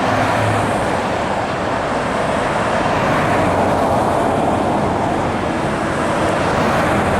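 Steady vehicle and road-traffic noise, loud and unbroken.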